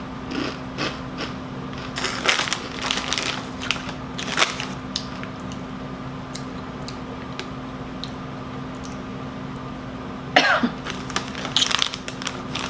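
Crunchy rolled tortilla chips (Doritos Dinamita) being bitten and chewed, with a run of sharp crackling crunches in the first few seconds and then quieter chewing. About ten seconds in comes a short throaty vocal sound, like a cough or throat-clearing.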